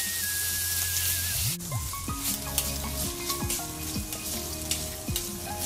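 Thinly sliced pork sizzling in a hot steel frying pan as it is stir-fried. The sizzle is loud for about the first second and a half, then drops sharply. After that, short clicks and scrapes of the utensil stirring in the pan carry on over a quieter sizzle.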